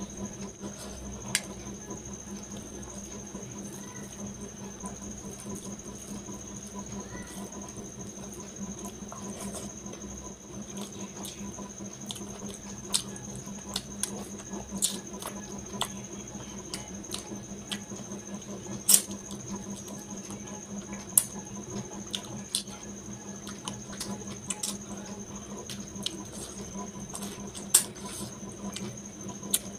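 Close-miked eating by hand: chewing with wet mouth clicks and smacks as curry and rice are eaten, with scattered sharper clicks at uneven intervals. A steady faint high whine and a low hum sit underneath.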